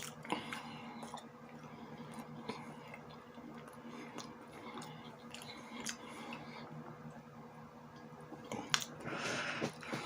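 Close-up chewing of a sausage with sauerkraut: soft, wet mouth smacks and clicks, with a few sharper clicks and a breathy rush near the end.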